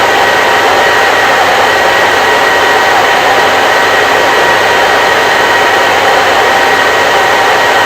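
Electric hair dryer running steadily: a loud, even rush of air over the motor's hum, with a faint whine held at a constant pitch.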